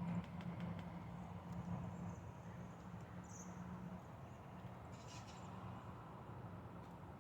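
Woodpecker tapping lightly on Norway spruce bark, a few faint taps in the first second, with a thin high squeak about three seconds in, over a steady low hum.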